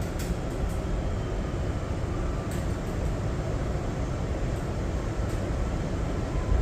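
Steady rumble inside an R211A subway car on the NYC B line, with a few faint clicks.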